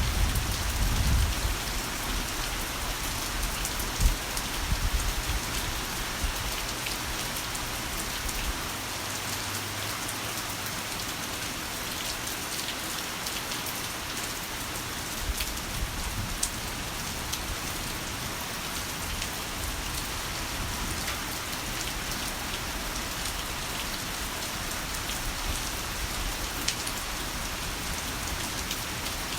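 Heavy rain falling steadily, a dense even hiss of drops. A low rumble of rolling thunder dies away over the first several seconds, with one sharper crack about four seconds in.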